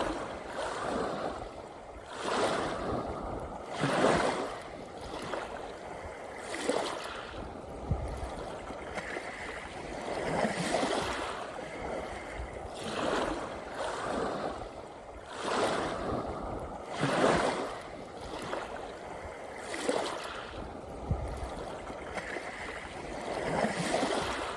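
Small sea waves breaking and washing up the shore, one swell of surf every two to three seconds over a constant hiss of water.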